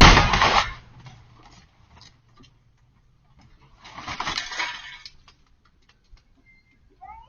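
A vehicle collision: a loud crash with breaking and clattering at the start, then scattered small clinks and a second, longer burst of clattering noise a few seconds later.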